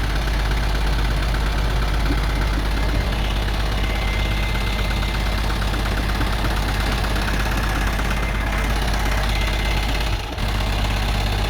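Excavator engine running steadily, with a light, rapid ticking through much of it and a brief drop in level near the end.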